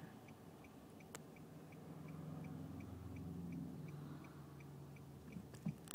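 Car turn-signal indicator ticking evenly about three times a second, faint over a low engine and road hum inside the cabin, with one sharp click about a second in.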